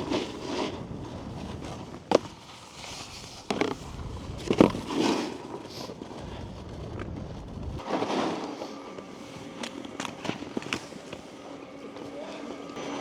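Snowboard riding over packed snow: a rumbling scrape from the base and edges, with a few sharp knocks as the board chatters over bumps. It stops about eight seconds in, leaving a few light clicks.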